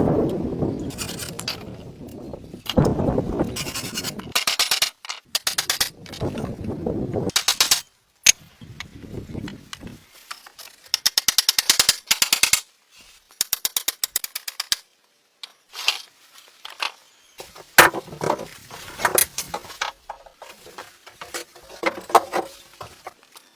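Hand-tool woodworking sounds in short cut-together bursts: scraping and rubbing, a quick run of even clicking about halfway through, and scattered knocks, with abrupt drops to silence between some of them.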